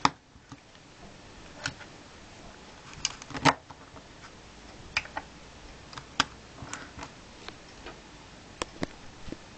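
Irregular sharp plastic clicks and taps of LEGO bricks being handled and pressed together, about a dozen in all, the loudest right at the start and about three and a half seconds in.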